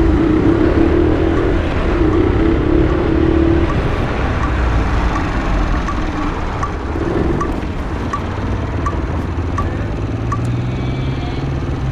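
Motorcycle engine running on the move, with road and wind noise. The engine note drops about four seconds in and picks up again near the end, with a light regular ticking in between.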